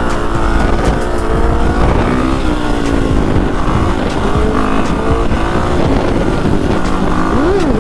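Dirt bike engine running hard, its pitch rising and falling as the throttle is worked while the rider clutches up into a wheelie. There is a quick rev up and back down near the end, and wind rushes on the microphone.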